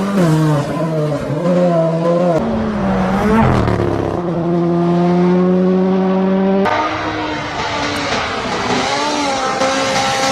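Rally car engine at full throttle, its pitch dropping and climbing with gear changes and lifts. It then holds one steady high note for a few seconds before breaking off suddenly about two-thirds of the way through, over a hiss of tyres and gravel.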